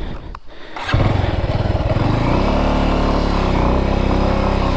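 Bajaj Avenger 220 motorcycle's single-cylinder engine coming in loud about a second in and pulling away at low revs, its pitch rising and falling gently as it rides slowly up a rough track. A few sharp clicks come before it.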